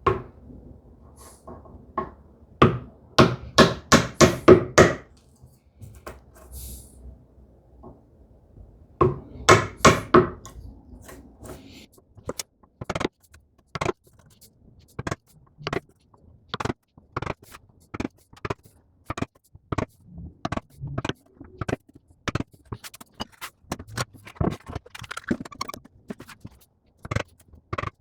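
Mallet striking a chisel in sharp taps. First come two quick flurries of several blows, then steady single taps about one to one and a half a second apart, as when chopping along a marked line in wood.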